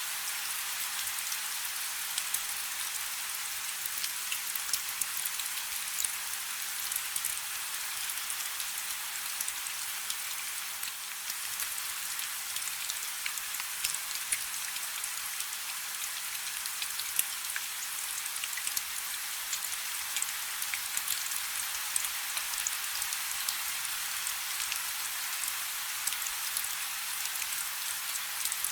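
Steady light rain: an even hiss with many small individual drops ticking through it.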